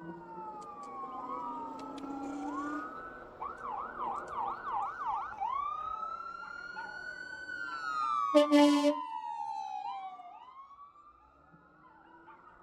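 Emergency vehicle siren going by: a rising and falling wail that switches to a fast yelp for about two seconds, then back to the wail. A short, loud horn blast comes about eight and a half seconds in, and the siren fades near the end.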